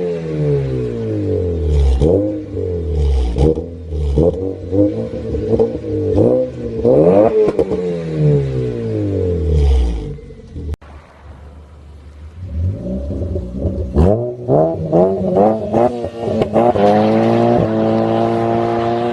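Hyundai Solaris engine and exhaust revving: the revs rise and fall sharply many times, settle briefly to a quieter low note about halfway through, then climb in quick blips and hold a high, steady pitch near the end as it accelerates.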